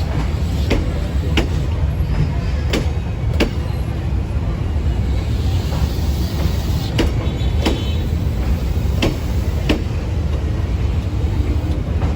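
Passenger train departing behind a D19E diesel-electric locomotive: a steady low rumble, with pairs of sharp wheel clacks over the rail joints every few seconds.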